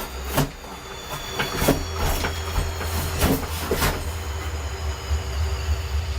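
Metal clanking and knocking from hand work on car parts: about eight irregular sharp hits in the first four seconds, over a steady low hum.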